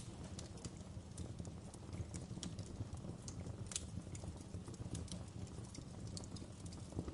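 Wood fire in a fireplace crackling, with irregular sharp pops and snaps of the burning logs, several a second, over a steady low rumble. The loudest pop comes a little past halfway.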